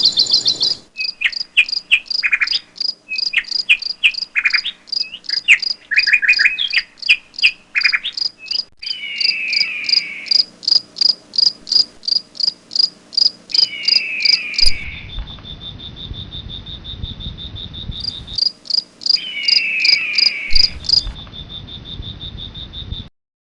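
Insect-like chirping repeating at about four pulses a second, mixed with bird calls: short lower chirps early on and three descending trills later. The background changes abruptly several times, and everything cuts off suddenly near the end.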